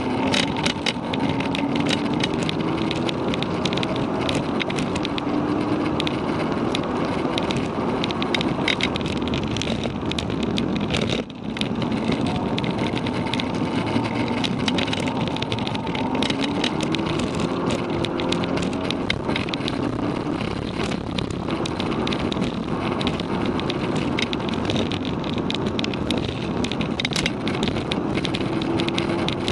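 Volkswagen Mk6 Golf GTI's turbocharged 2.0-litre four-cylinder with an APR Stage 1 tune, heard from inside the cabin while lapping a race track. Its pitch climbs as it revs out several times, and the level dips briefly about eleven seconds in.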